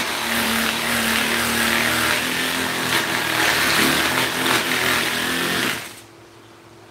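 Motorised power tool running with a loud hissing grind over a steady motor tone, then switched off about six seconds in, leaving only a faint steady hum.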